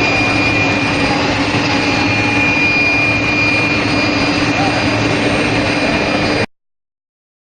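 Steady machinery noise from a steel rail induction hardening and tempering line: a constant hiss with a high, steady whine and a lower steady hum over it. It cuts off suddenly about six and a half seconds in.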